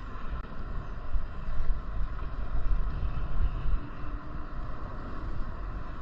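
Wind buffeting the microphone in uneven low gusts over a steady rushing road noise, as heard while riding a bike.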